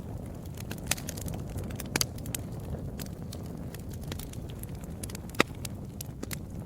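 Wood fire burning with a steady low rumble and irregular sharp crackles and pops, the loudest pop about five seconds in.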